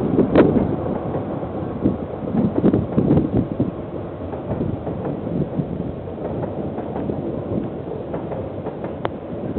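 Freight train wagons rolling past on the track: a steady rumble with irregular clunks and knocks from the wheels and couplings, the loudest just under half a second in.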